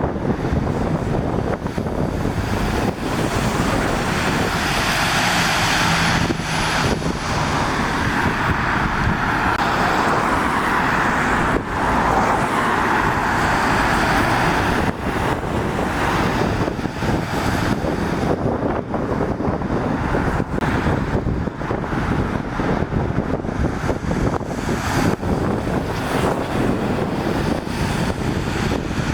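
Road traffic passing on a wet road: the hiss of tyres on wet tarmac swells over several seconds as vehicles go by and then fades, with wind buffeting the microphone throughout.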